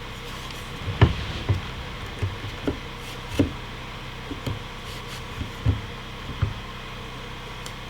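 Irregular wooden knocks and thumps, about eight of them with the loudest about a second in, as cut boards are handled and set down. A steady low hum runs underneath.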